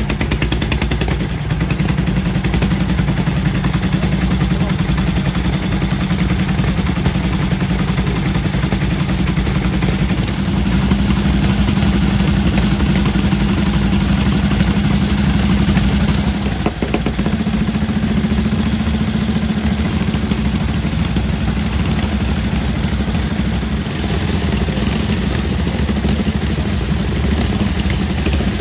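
Vintage motorcycle engines idling steadily.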